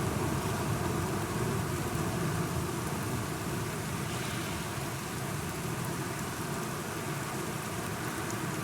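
Steady heavy rainfall, with a low rumble underneath.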